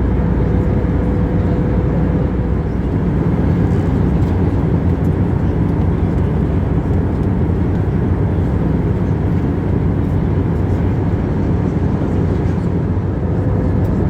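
Steady airliner cabin noise in flight: the constant low-heavy rush of engines and airflow heard from a window seat. A faint steady hum sits above it for the first two seconds and returns near the end.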